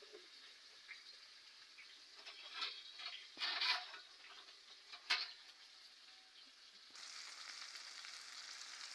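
Flour-coated chicken pieces frying in hot oil, a steady sizzle, with a few knocks and scrapes against the pot about two to five seconds in. The sizzle turns suddenly louder about seven seconds in.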